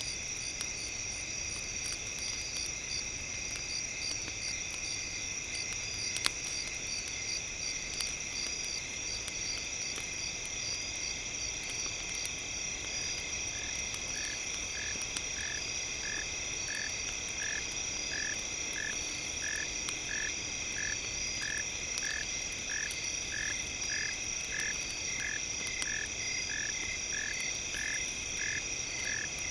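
Night chorus of frogs and insects: steady high trilling, with a regular pulsed call repeating about one and a half times a second from about halfway through. Faint crackles and one sharper pop about six seconds in come from a campfire.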